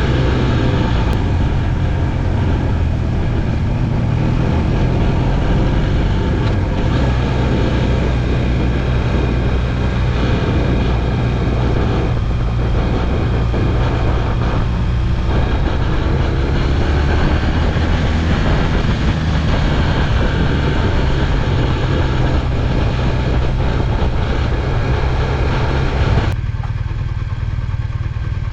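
Motorcycle engine running steadily while riding, under heavy wind and road noise. The wind hiss drops away suddenly near the end, leaving mostly the engine.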